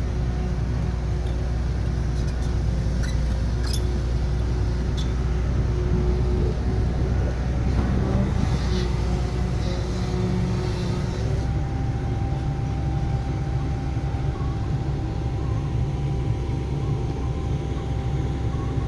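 Heavy construction machine's diesel engine running steadily, with a few light knocks in the first few seconds and a change in the engine note a little past halfway.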